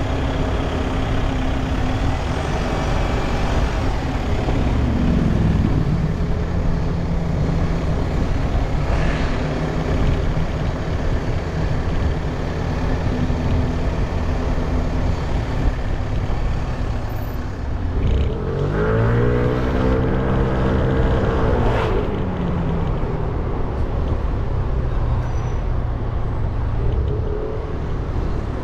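A 300 cc motorbike engine running while riding, with a steady hum. Its pitch drops about five seconds in. A little under two-thirds of the way through it revs up and then back down over a few seconds.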